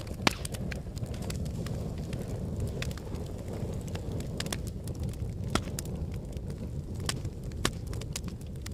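Log fire burning in a fireplace: a steady low rumble of the flames with scattered sharp crackles and pops from the burning wood, the loudest pop just after the start.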